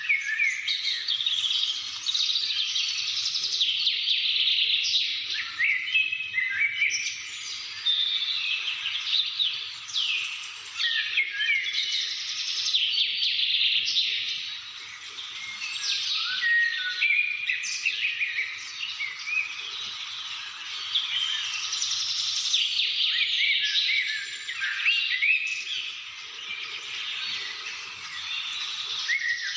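Chorus of many birds chirping and calling at once: a dense, unbroken stream of quick, overlapping chirps and short sweeping notes.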